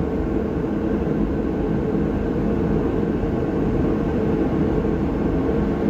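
Steady mechanical hum at a constant pitch, with no distinct tool knocks or clicks.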